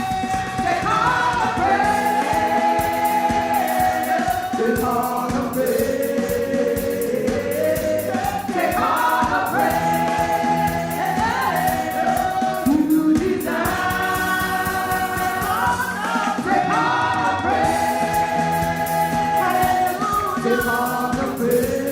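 Gospel choir singing a worship song in long held notes over instrumental accompaniment with a steady beat.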